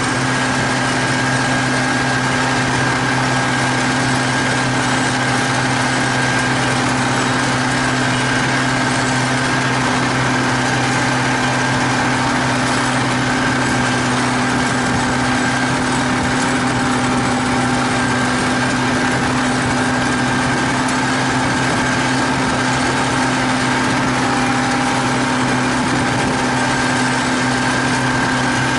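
T-150K tractor's diesel engine running steadily under load while pulling a cultivator, a constant drone that holds one even pitch.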